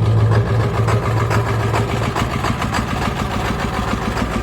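Ford 7.3-litre V8 diesel running rough and clattering just after a winter cold start on starting fluid, crabby while still cold. Its low drone eases about two seconds in.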